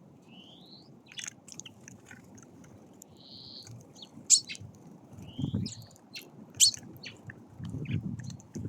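Small songbirds calling at a feeder: short rising whistled calls, chirps and a few sharp clicks, with low rumbling patches in the second half.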